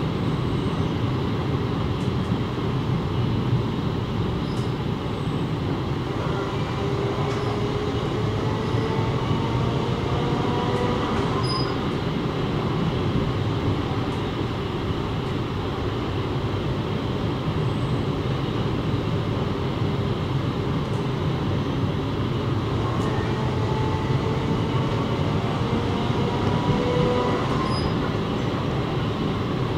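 A commuter train running along the rails, heard from on board as a steady rumble and hiss. Faint whines that slowly rise in pitch come through around the middle and again near the end.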